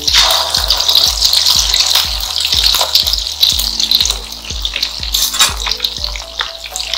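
Turubuk fritter batter sizzling as it fries in shallow oil in a wok, with a metal spoon clicking and scraping against the pan. Background music with a steady beat plays underneath.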